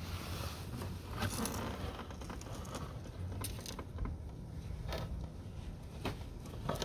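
Scattered light clicks and knocks of tools and parts being handled during a scooter oil change, about five in all, over a steady low hum.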